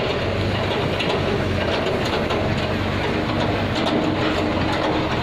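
Heavy diesel engine running steadily, with a low hum and faint light clatter over it.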